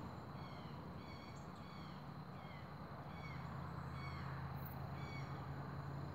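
A bird calling over and over, short falling notes about two a second, over a steady low hum and a faint steady high whine.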